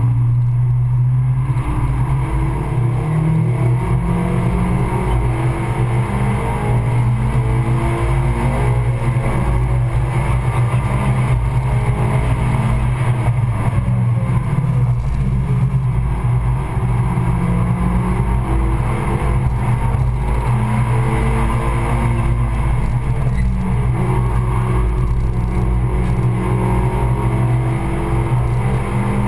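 Suzuki Swift Sport's four-cylinder engine heard from inside the cabin while driven hard on track, the revs climbing and dropping back again and again as it works through the gears.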